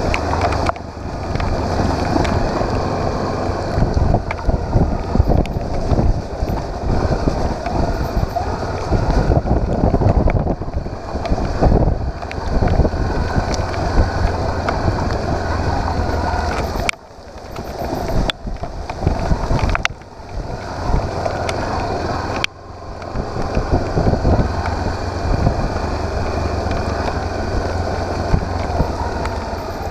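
Motorcycle engine running under way, buried in heavy wind noise on the microphone. Twice the sound drops off sharply for a moment and then builds back up.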